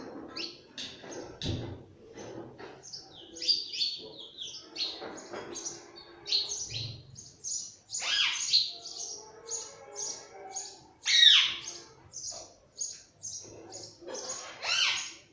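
Pet parrot chirping in a rapid string of short, high chirps, broken by a few louder, falling squawks, the loudest about eleven seconds in.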